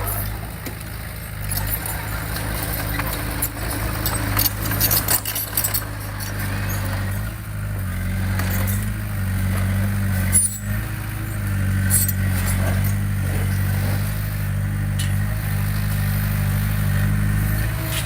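Diesel engine of heavy earthmoving equipment running steadily under load, its pitch shifting a few times, with scattered sharp metallic clinks and clanks.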